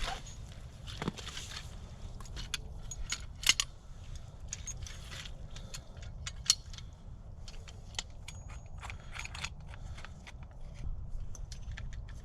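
Scattered sharp little clicks, knocks and scrapes, the loudest about three and a half seconds in, over a steady low rumble.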